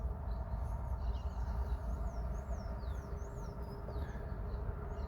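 Birds chirping in a run of quick, mostly falling whistles over a steady low rumble.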